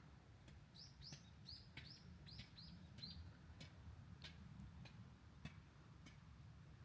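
Faint small-bird calls: a quick run of about eight short, high, falling notes, followed by a few scattered sharp ticks.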